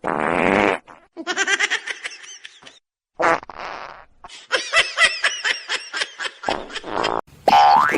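A short raspy noise, then several bursts of high-pitched human laughter.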